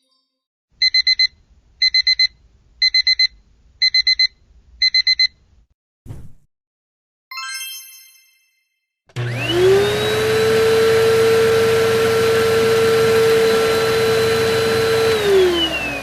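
A run of household sounds. First come five quick bursts of electronic beeping about a second apart, like an alarm clock, then a brief thump and a short ring. Then a household appliance's electric motor spins up, runs steadily and loudly, and winds down with falling pitch near the end.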